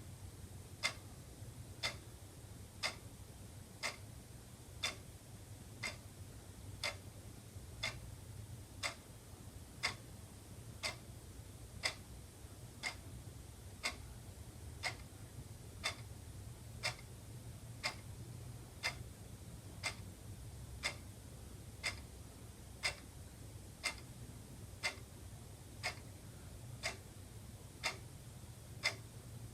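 Wall clock ticking steadily, one sharp tick about every second, over a faint steady low hum.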